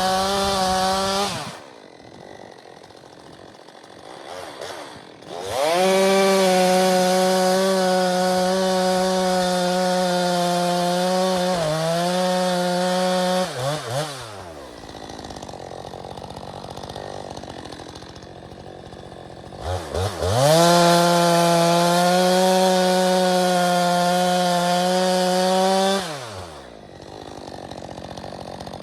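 Stihl 462C chainsaw on its stock muffler running at full throttle through cuts, with the saw left to pull itself into the wood without force. There are three long stretches of a steady, high engine note, each ending as the pitch glides down to idle. Near the middle of the second stretch the pitch dips briefly and recovers.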